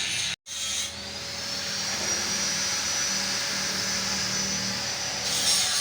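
A motor-driven tool running steadily with a hiss and a thin high whine that rises and then holds. The sound cuts out completely for a moment just after the start.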